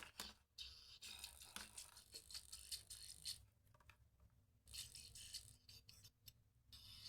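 Faint crackling and rattling from a faulty Bluetooth neckband, coming in irregular bursts with a short lull about halfway through.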